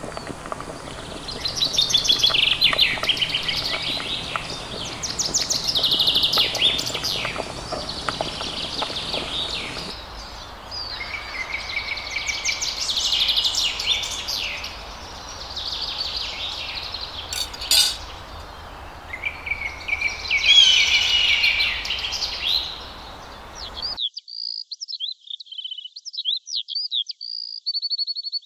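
Small birds singing, with repeated high chirping and trilling phrases over a low background hiss. About two thirds of the way through, the hiss drops away and only clear, quick high chirps are left.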